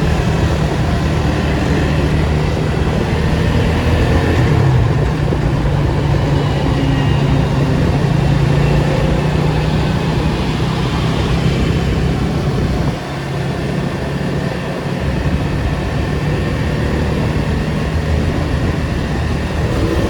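Datsun 280Z's straight-six engine running in traffic with a steady low drone; about two-thirds of the way through its low note briefly drops away, then picks up again.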